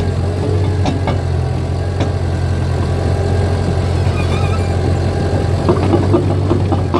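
Caterpillar bulldozer's diesel engine running steadily, with sharp clicks and clanks from its steel tracks that come thicker near the end.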